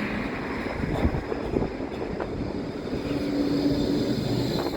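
Strong wind buffeting the microphone, with a steady hum from a passing vehicle starting about three seconds in.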